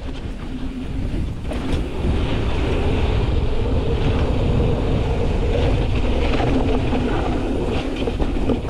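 Hardtail mountain bike riding down a dirt trail, heard from a helmet or bar-mounted GoPro with a wind muff: a steady rolling rumble of tyres and bike rattle that builds over the first two seconds as speed picks up, with little wind noise.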